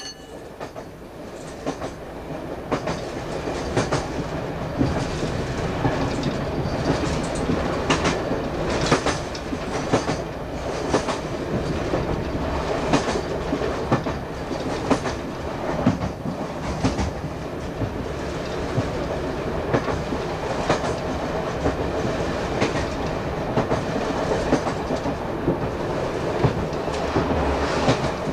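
Class 117 diesel multiple unit running along the line, heard from the driving cab: a steady rumble of the running train with repeated clickety-clack knocks of the wheels over rail joints. The sound grows louder over the first couple of seconds, then holds steady.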